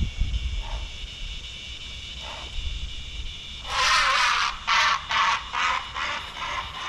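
A bird calling loudly outdoors: one long harsh call a little under four seconds in, then a run of shorter calls that grow fainter, over a steady insect trill.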